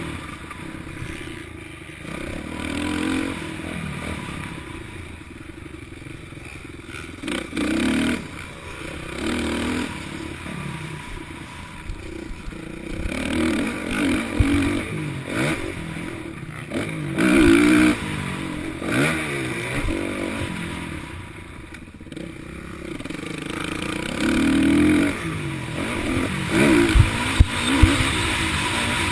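Motocross bikes racing on a dirt track, their engines revving up and dropping off again and again as they pass, with a few sharp knocks near the end.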